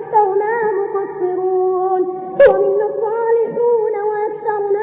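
A high voice chanting an Arabic supplication in long, drawn-out melodic phrases, with one sharp click about halfway through.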